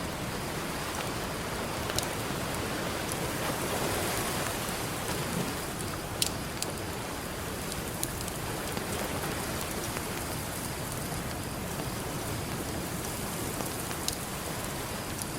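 Campfire crackling with a few sharp pops of burning wood, over a steady hiss of ocean surf that swells slightly a few seconds in.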